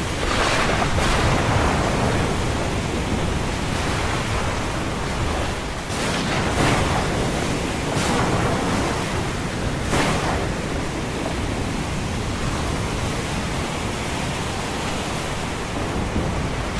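Ocean surf and rain: a steady rushing, with brief surges of hiss near the start and about six, eight and ten seconds in.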